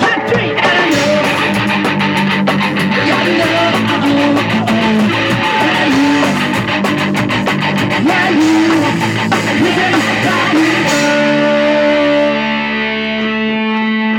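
Punk rock music with distorted electric guitar, bass and drums. About eleven seconds in the drums stop and a guitar chord rings on.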